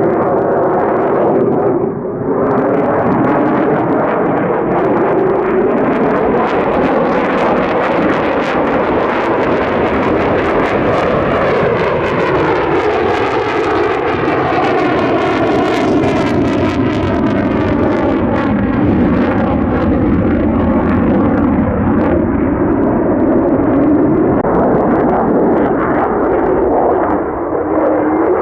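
Lockheed Martin F-35A's single afterburning turbofan, loud, continuous jet noise as the fighter flies overhead, its pitch bands sliding up and down as it passes.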